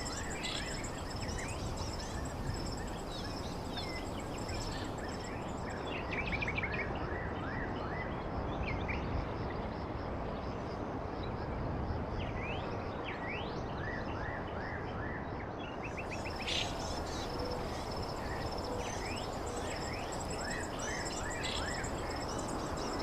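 Birds chirping in short rising calls over a steady high insect trill, with a constant background hiss.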